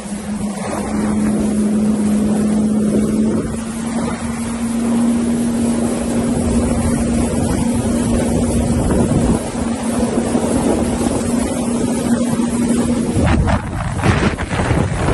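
Jet ski engine running at a steady drone, its pitch stepping up slightly a few seconds in, with wind rushing on the microphone. The engine tone drops away near the end, leaving the wind and water noise.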